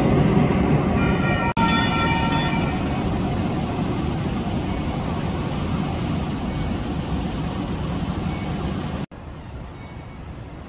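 Light rail train running past with a steady rumble; a horn sounds in the first couple of seconds. After that, street and traffic noise carries on, dropping suddenly to a quieter street hum near the end.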